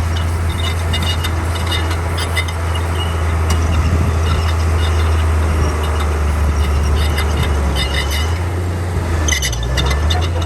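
Komatsu D41P crawler bulldozer's diesel engine running with a steady low drone, with many short high metallic clicks from the working machine over it.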